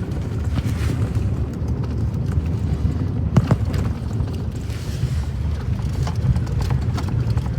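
Vehicle driving over a rough dirt road: a steady low rumble with irregular knocks and rattles, one sharper clunk about three and a half seconds in.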